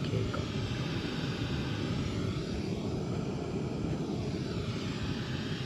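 Gas camping burner fitted with a Coleman heater attachment, burning at a steady flame: an even, continuous rushing noise.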